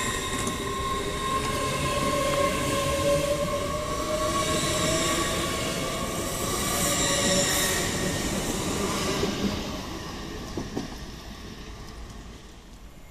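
TransPennine Express Class 802 train moving off along the platform: wheel and rail rumble with a whine that rises slowly in pitch as it gathers speed. The sound fades away after about ten seconds as the train leaves.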